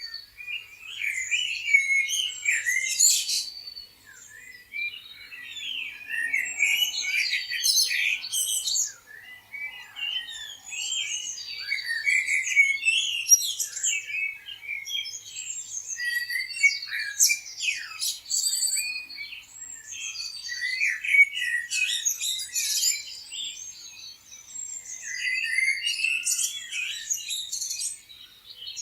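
Several songbirds chirping, overlapping in quick high-pitched calls and trills, with brief lulls.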